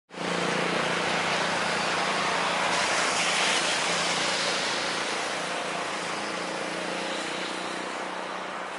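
Jet airliner engines running with a steady rushing noise and a low hum underneath, swelling a few seconds in and then slowly fading.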